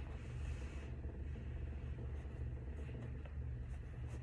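Steady low hum with a few faint ticks near the end.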